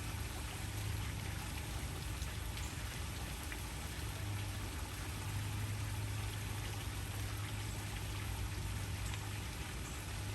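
Waterfall: a steady rush of falling water with a deep low rumble underneath.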